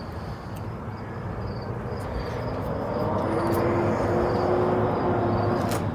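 A distant engine drone of a passing motor, swelling gradually to its loudest about four to five seconds in, with a steady tone running through it.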